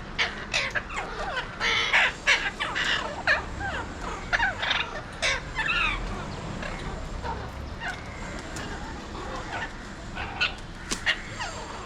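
Alexandrine parakeets calling harshly, many short calls in quick succession for the first half, then a few scattered calls near the end.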